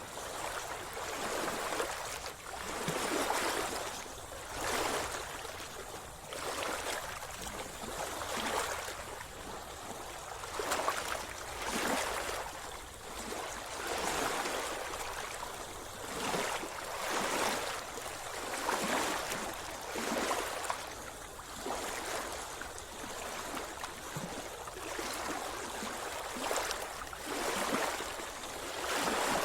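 Sea water splashing and sloshing in repeated surges about every one and a half to two seconds, as a person swims.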